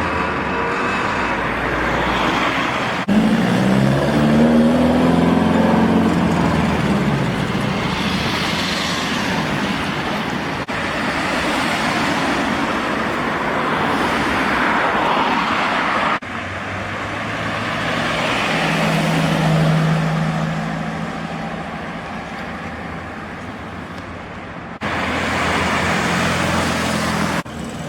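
Classic cars driving off one after another, their engines revving as they pull away and pass. Several short clips are spliced together, so the sound changes abruptly a few times.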